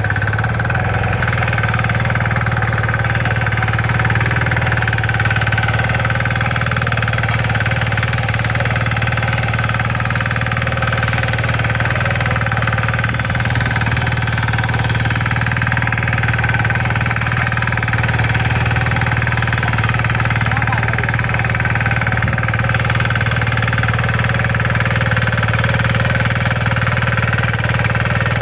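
Kisankraft KK-IC250D power weeder's 5 HP single-cylinder diesel engine running at a steady speed while the weeder cultivates between crop rows.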